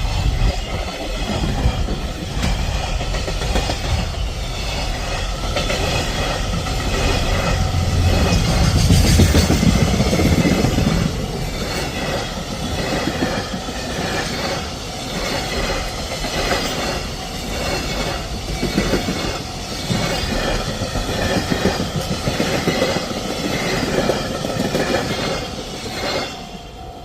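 A train passing at speed, loudest about a third of the way in, followed by a long run of steady, regular clickety-clack from the wheels over the rail joints that fades near the end.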